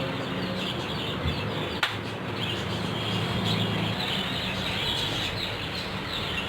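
Birds chirping and twittering continuously over a steady low hum, with one sharp click about two seconds in.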